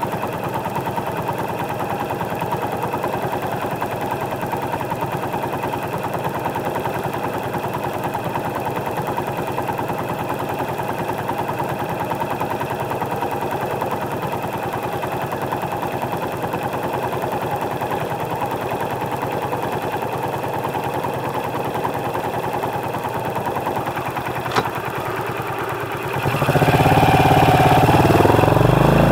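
Small motorcycle engine idling steadily, picked up by a microphone mounted under the seat, with a single click about 24 seconds in. Near the end the engine revs up louder as the bike pulls away.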